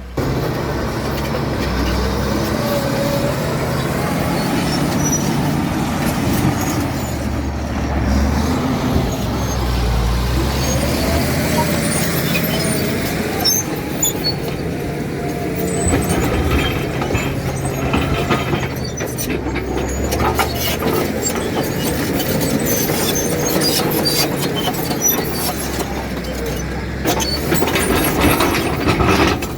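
Caterpillar D7 bulldozer's diesel engine running at work, its pitch rising and falling with load, with scattered clanks and knocks over the second half.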